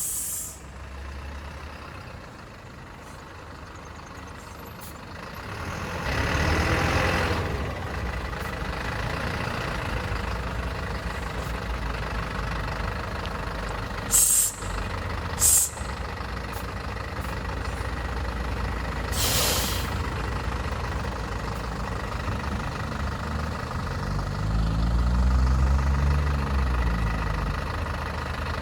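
Vehicle engine running at low speed with a steady low rumble, broken by three short, sharp hisses in the middle; near the end the engine pitch rises and falls once.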